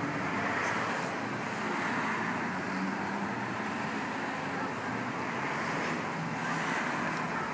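Steady background road traffic noise, an even rushing hum without distinct events.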